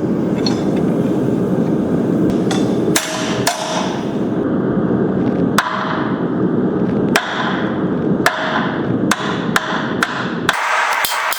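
Hand hammer striking steel in a blacksmith's guillotine fuller tool, about ten separate blows at uneven spacing, some leaving a short metallic ring. A steady rushing noise runs under the blows and stops about a second before the end.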